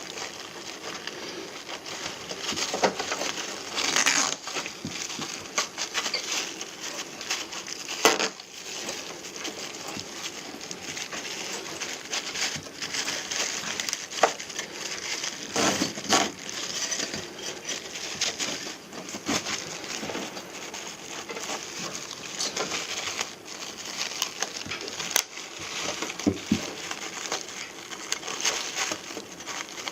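Irregular rustling and crinkling with scattered light clicks and knocks, as of things being handled; the loudest knocks come about 4, 8 and 16 seconds in.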